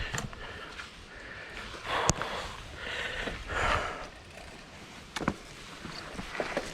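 Mountain bike being ridden on a dirt trail: a few short rushes of noise and scattered sharp clicks and knocks, the loudest a click about two seconds in and another about five seconds in.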